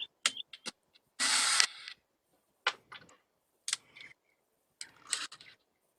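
Scattered sharp clicks and knocks from tools and wood being handled while a wooden bird feeder is built, with one short, loud rushing burst a little after a second in.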